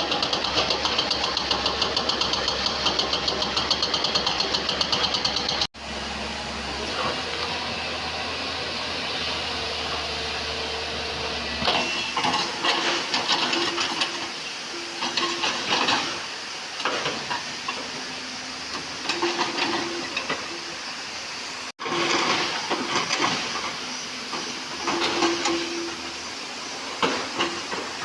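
JCB excavator's diesel engine running under working load, with hissing noise and irregular surges as it works. Sharp breaks about a fifth and three quarters of the way through mark edit cuts between takes.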